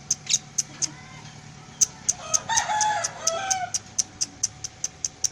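Lovebird chirping in sharp high notes repeating about four times a second. A rooster crows once, about two seconds in, for roughly a second and a half.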